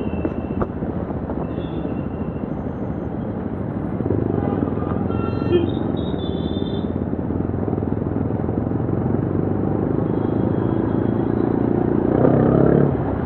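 A Yezdi Adventure's single-cylinder engine and exhaust running while the bike is ridden, with road and wind rumble. It gets louder about four seconds in and again near the end as the rider opens the throttle.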